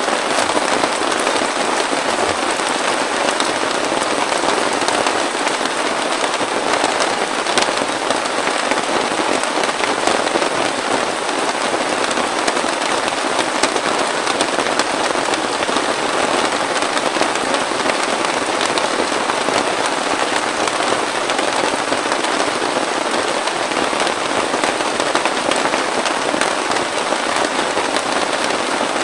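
Heavy rain falling steadily, a dense patter of close drop impacts on a surface with no letup.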